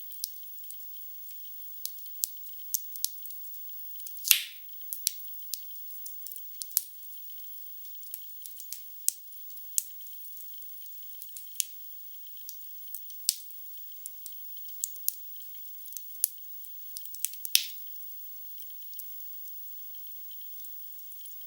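Logs burning in a fireplace, crackling: scattered light, crisp snaps with no low rumble, and two louder pops, one about four seconds in and another toward the end.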